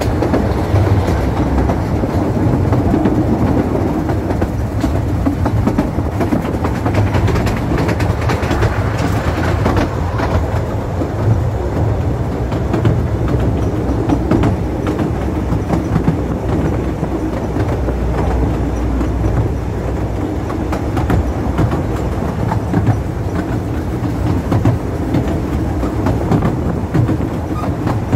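Ffestiniog Railway narrow-gauge train running: a steady heavy rumble with frequent irregular clicks and knocks as the wheels pass over the rail joints.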